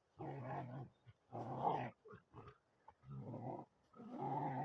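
A dog vocalizing in four drawn-out, pitched calls, each lasting under a second, with short gaps between them.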